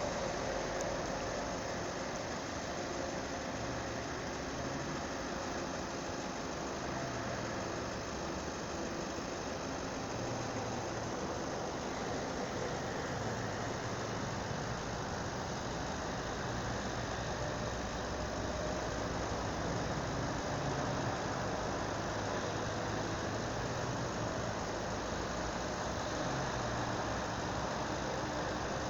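Steady motor-vehicle engine and road noise on a highway, running evenly throughout with a low engine hum that shifts slightly in pitch.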